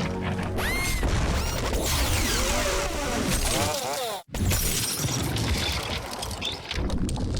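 Cartoon action sound effects: crashing and shattering with quick whistling glides, over dramatic score music. The sound cuts out abruptly for a split second about four seconds in.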